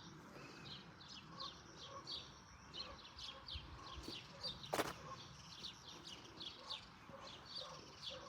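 Small birds chirping busily, many short quick chirps overlapping, with one sharp click about halfway through.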